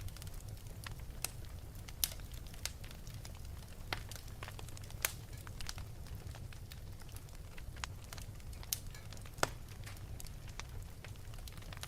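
Wood fire crackling in an open fireplace: irregular sharp pops and snaps over a low steady rumble of the flames, the loudest pops about two, five and nine and a half seconds in.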